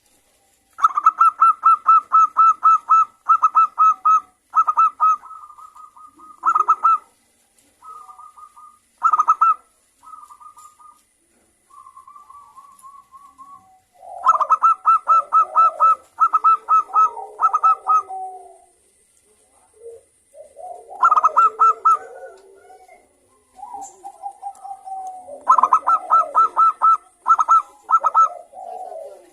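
Zebra doves (perkutut) cooing and answering one another. Bouts of rapid staccato cooing notes come in quick series, with softer, lower cooing in between.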